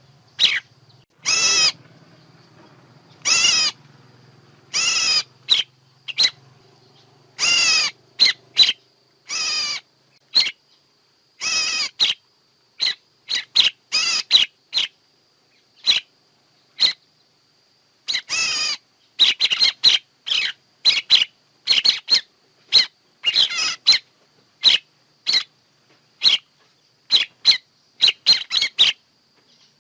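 Recorded bird calls used as a trapping lure: an irregular series of harsh call notes, some about half a second long and many short sharp ones, coming faster in the second half. A faint steady high whine runs underneath.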